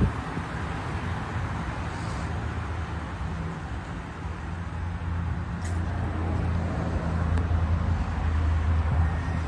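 Honda Pilot's 3.5-litre V6 idling, a steady low hum that grows louder near the end as the exhaust comes close.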